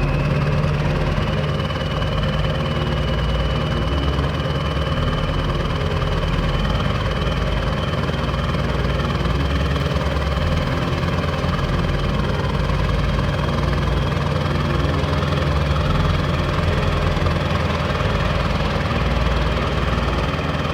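A vehicle engine running steadily, with a thin, high whine above it throughout.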